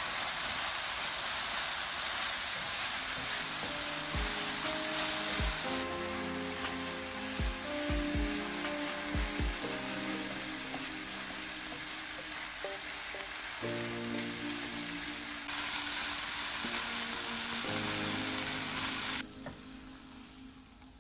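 King oyster mushrooms, imitation crab and green onion sizzling as they are stir-fried in a nonstick frying pan and turned with a wooden spatula, with a few dull low knocks along the way. The sizzle drops away near the end.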